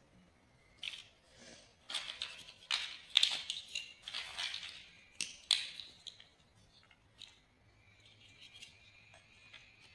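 Plastic building-block pieces being handled and pressed together: a run of sharp clicks and scraping that dies down after about six seconds.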